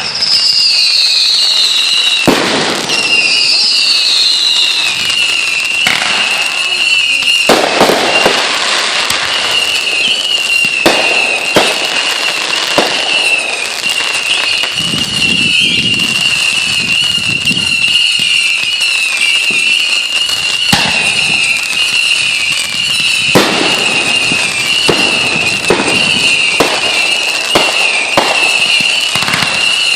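Consumer fireworks going off: a continuous shrill whistle that wavers in pitch, two falling whistles in the first few seconds, and many sharp bangs and crackling pops throughout.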